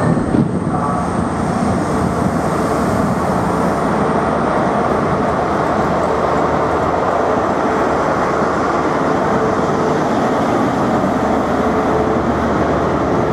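Class 43 High Speed Train pulling out of the platform: a steady rumble of the coaches rolling past, with the power cars' MTU diesel engines running under power.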